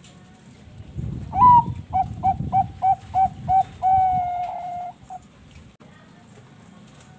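Zebra dove (Bangkok perkutut) cooing: a short higher opening note, a quick run of about seven even coos, then one long held note, beginning about a second in and ending at about five seconds.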